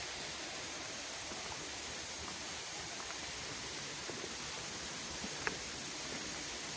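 Steady rush of water from the Rufabgo waterfalls, with one short click about five and a half seconds in.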